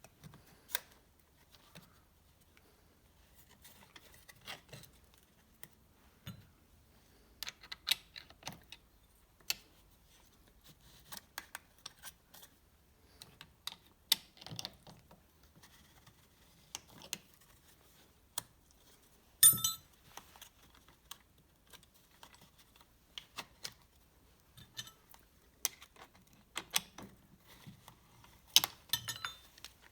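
Irregular light clicks and taps of metal parts and hand tools being handled during piston installation on an engine block. One sharper, ringing metallic clink about two-thirds of the way through.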